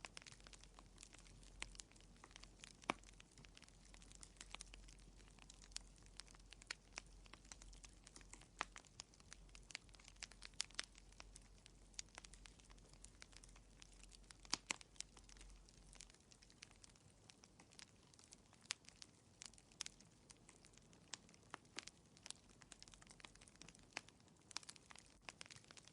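Wood fire crackling faintly in a fireplace: irregular small pops and snaps, several a second, over a low hiss.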